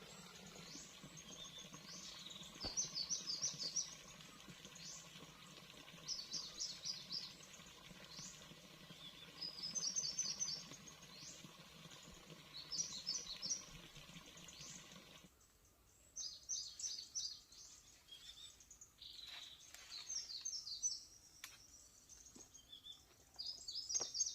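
Small bird calling again and again in short high chirping phrases, one every two or three seconds, over a faint steady low hum that cuts off about two-thirds of the way through.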